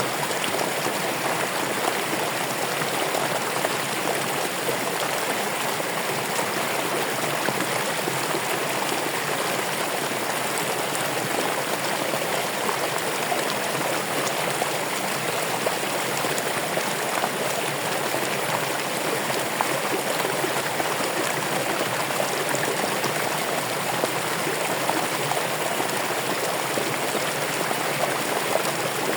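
Running water: a steady, even rush of a flowing stream, with no change.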